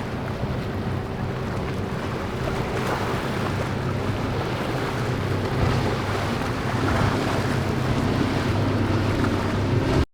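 Boat engine running with a steady low hum over rushing waves and wind buffeting the microphone, growing slightly louder, then cutting off suddenly near the end.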